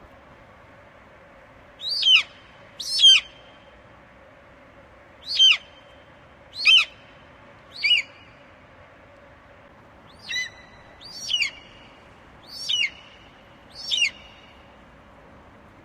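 Eagle calling: a series of nine short, high calls, each sliding sharply downward in pitch, repeated about every second or so over a steady background hiss.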